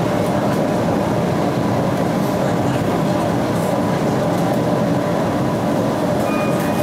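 Metra Electric passenger train running at speed, heard from inside the car: a steady, even running noise of wheels and rails, with a brief faint high tone near the end.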